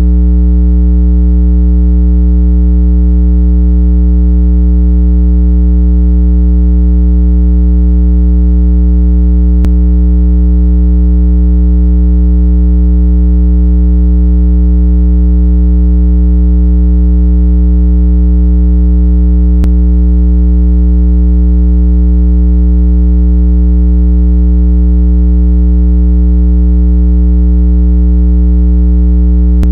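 Continuous low-pitched electronic test tone of a speaker water-eject sound, billed as 165 Hz. It holds steady with buzzy overtones above it, meant to vibrate a speaker or earbud diaphragm hard enough to push out trapped water. A faint tick comes about every ten seconds.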